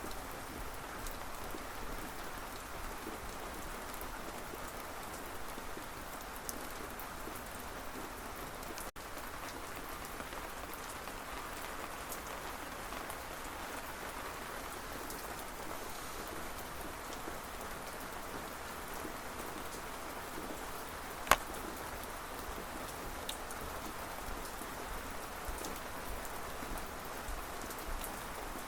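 Steady rain falling, with scattered light drop ticks and one sharp, loud click about three quarters of the way through. The sound drops out for an instant about a third of the way in.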